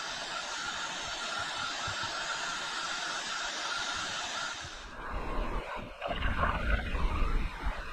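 Rushing river water, a steady hiss. About five seconds in it changes abruptly to a lower, uneven buffeting rumble.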